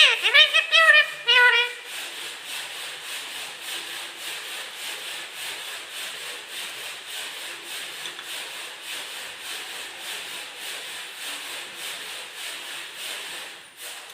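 A parrot's short pitched calls or talking in the first second and a half, followed by a steady rasping, rubbing noise with a faint regular pulse.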